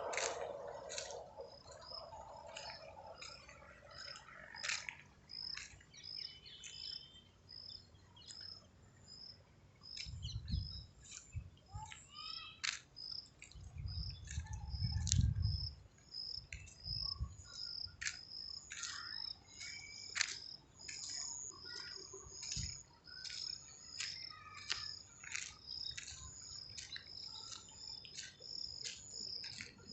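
Birds calling outdoors: many short, sharp chirps over a high chirp repeated evenly, about once or twice a second. A few low rumbles come near the middle.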